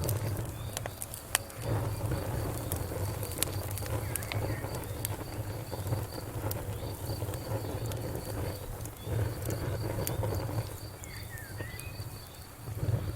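Wood fire burning in a fireplace: irregular sharp crackles and pops over a low, wavering rumble of the flames. A steady high chirping pulse, several beats a second, runs underneath, with a brief dip in the fire's rumble about nine seconds in.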